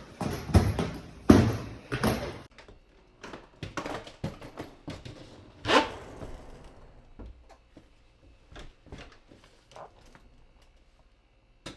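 Background music with a steady beat cuts off about two and a half seconds in. It is followed by scattered faint knocks and clicks, door-like handling sounds in a small room.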